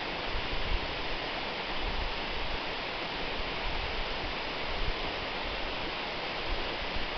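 Waterfall: a steady, even rush of falling water with a fluctuating low rumble underneath.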